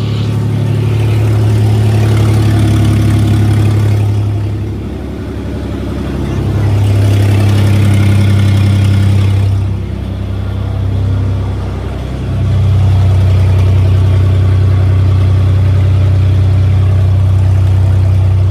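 A 2002 Nissan Xterra's supercharged V6 runs on a cold start, loud and unmuffled because the exhaust leaves straight out of open exhaust manifolds. The engine note holds steady, but its loudness swells and dips a few times.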